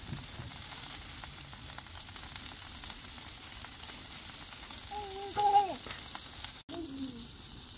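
Sliced bell peppers and onions frying in avocado oil on a Blackstone flat-top griddle: a steady sizzle, the vegetables turned with a metal spatula. A short high voice sounds about five seconds in, the loudest moment.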